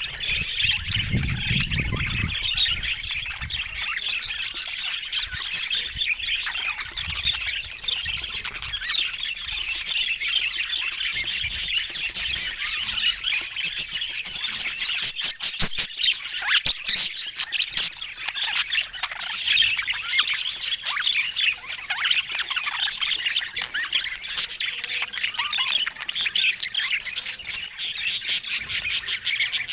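A group of budgerigars chattering, with continuous overlapping chirps, squawks and warbles. There is a brief low rumble about a second in.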